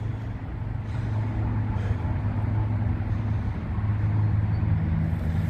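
Steady low rumble of distant highway traffic.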